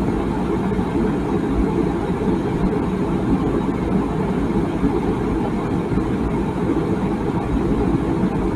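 Water boiling in a tea kettle, a steady low rumble without a whistle.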